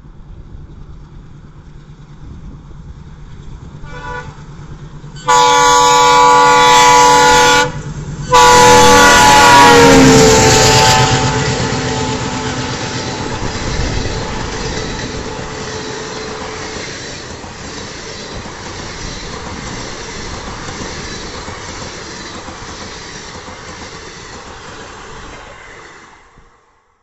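An Indian Railways electric locomotive hauling an express train sounds its horn: a short toot, then two long loud blasts, the second dropping in pitch as the locomotive passes. The passenger coaches follow with a steady rumble and clatter of wheels on the rails that slowly fades away.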